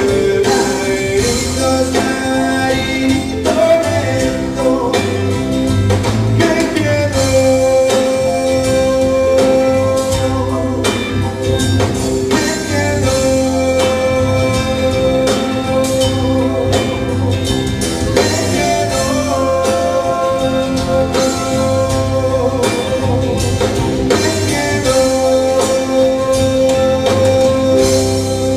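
Live rock band playing a Latin rock song, with guitar and drum kit over held sustained notes.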